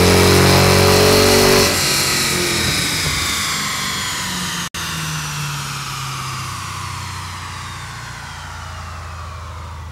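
2008 Dodge Challenger SRT8's 6.1-litre Hemi V8 through a MagnaFlow cat-back exhaust, held at full throttle on a dyno pull. After about a second and a half the throttle closes and the engine winds down, a steadily falling whine fading away, with a brief cut in the sound about halfway.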